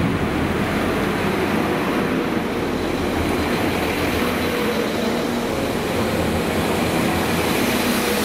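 A Transport for Wales Class 197 diesel multiple unit running past along the platform: a steady diesel engine drone with wheel and rail noise from the passing carriages.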